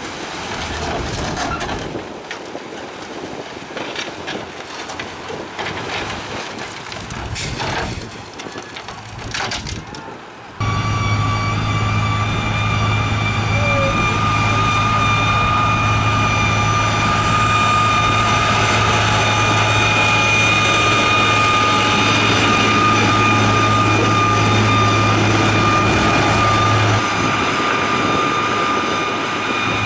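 Heavy construction machinery at work: for about ten seconds an uneven rumble with wind noise and a few knocks, then, after a sudden change, a heavy diesel engine running steadily with a low hum and a high whine, easing slightly near the end.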